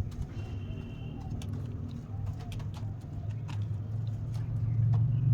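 Indian fantail pigeon cooing low through the first half. A steady low rumble, like a passing vehicle, grows louder near the end.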